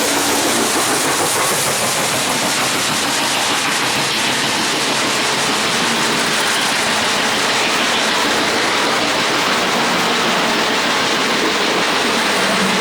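A train rolling past on the rails: a steady rush of wheels on track at an even level.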